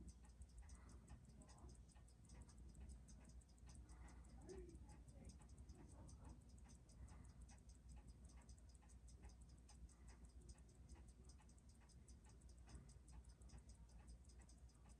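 Faint, even ticking of a Seiko 6139 automatic chronograph movement on a timegrapher, about six beats a second. It is running steadily, freshly regulated with a beat error of about 0.1 ms.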